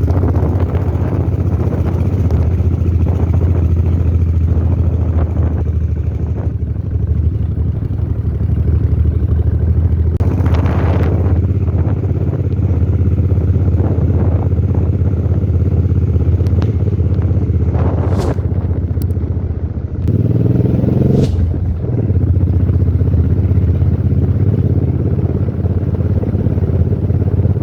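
Suzuki Boulevard M800 V-twin motorcycle running under way with a steady low engine note. About twenty seconds in the engine briefly eases off, then revs up with a rising pitch.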